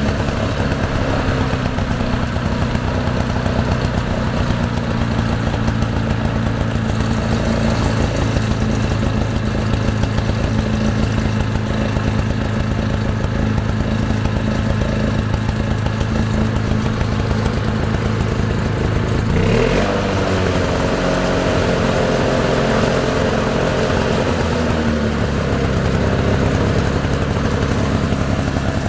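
Two-stroke Briggs & Stratton 096722 engine, built by Komatsu-Zenoah, running steadily on a Ransomes Bob Cat push mower. About two-thirds of the way through, its pitch rises quickly and holds higher for several seconds before settling back down.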